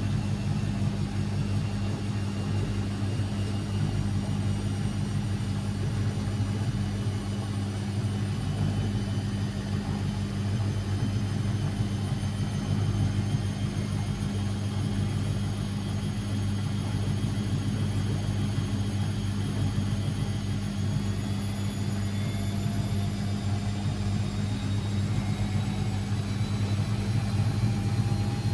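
Constructa Energy 1000s washing machine running: a steady low hum with a faint whine that slowly rises in pitch as the motor gathers speed.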